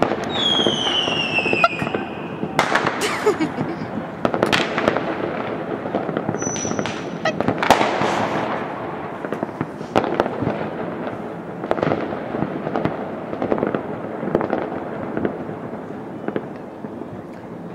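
New Year fireworks and firecrackers going off all around, many bangs and cracks one after another over a steady background din of further explosions. In the first couple of seconds a whistle falls in pitch.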